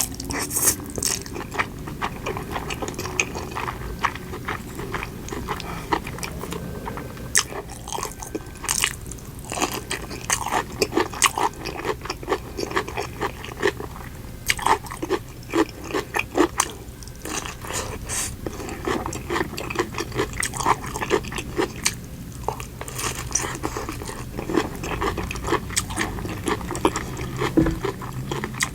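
Close-miked eating: crunching bites and chewing, a dense run of short, irregular crackles.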